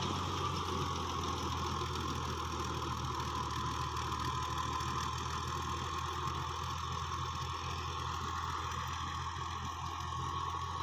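Fiat 480 tractor's diesel engine running steadily at a constant speed while working a rotavator, an even drone with no change in pitch.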